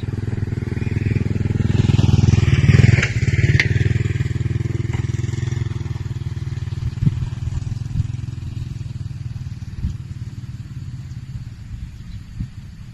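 A small engine running steadily. It gets louder to a peak about three seconds in, then eases off, with a few light knocks near the end.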